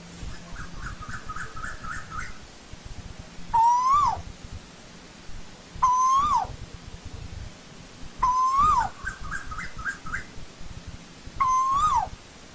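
Asian koel calling: four loud rising-then-falling 'ko-el' calls spaced about two and a half seconds apart. Between them come two quieter quick series of short notes.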